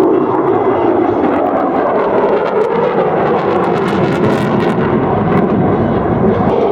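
Loud, steady jet engine noise from an F-22 Raptor's twin turbofan engines.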